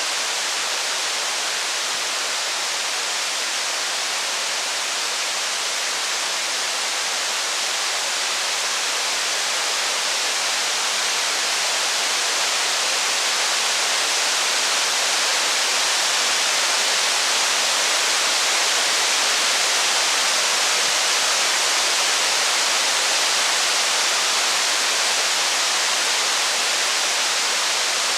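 Steady rain, an even high hiss with no breaks.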